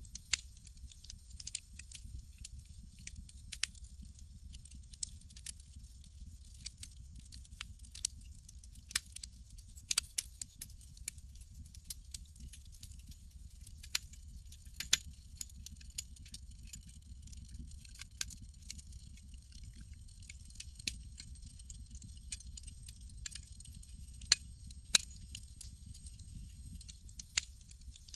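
Campfire crackling, with irregular sharp pops and snaps of varying loudness over a low steady rumble.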